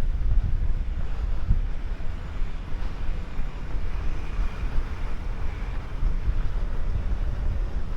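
Wind buffeting the microphone of a camera carried by a runner, a gusty, uneven rumble, with a faint steady outdoor hiss behind it.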